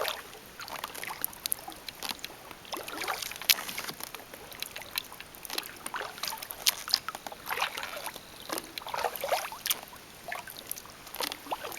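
Kayak paddle working calm water: irregular swishing splashes every second or two, with drips and small clicks.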